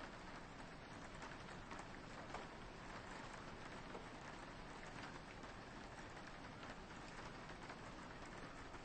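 Soft rain falling steadily on a window, with many small scattered drop ticks over an even hiss.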